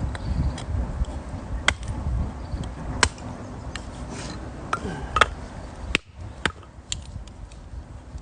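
Wood being split with a knife: several sharp, irregular knocks and cracks, over a low rumble that drops away about six seconds in.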